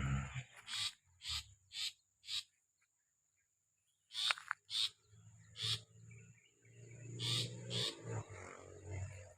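A cendet (long-tailed shrike) giving short, separate harsh call notes, about a dozen in all with a pause near the middle, over a steady high-pitched whine. A low rumble joins in the second half.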